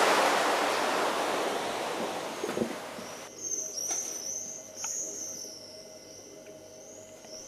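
A soft rushing noise fades away over the first three seconds; then a small bird sings a series of high, thin, arching notes, repeated without pause, until the end.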